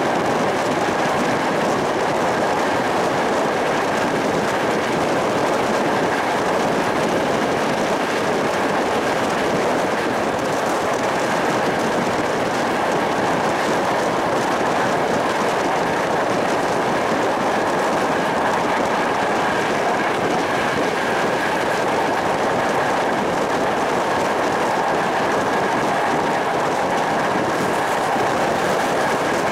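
Passenger train coaches running at speed, heard from an open carriage window: a steady rolling noise of wheels on the rails with a faint steady high tone over it.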